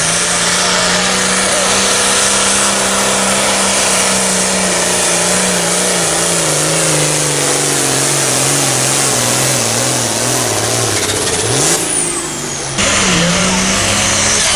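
A pulling tractor's engine running hard at a tractor pull, its pitch slowly sinking over about eleven seconds. About twelve seconds in the sound briefly drops, then the engine note comes back higher.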